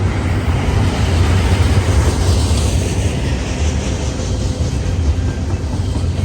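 A passing train: a steady, heavy low rumble with a rushing hiss over it that swells about two seconds in.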